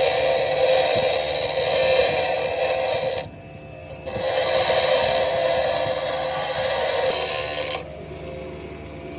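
Power tool abrading metal in two passes: it runs for about three seconds, stops for about a second, then runs again for about four seconds before stopping.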